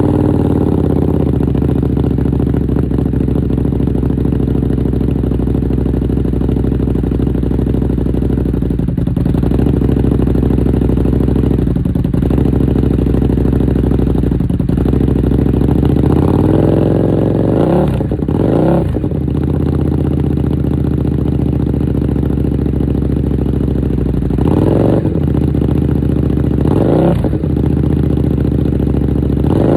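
Buell 1125CR's Rotax 1125 cc V-twin, just started, idling loudly through an aftermarket Dean Adams exhaust; the idle settles slightly lower in the first couple of seconds. In the second half, five short throttle blips rise and fall in pitch.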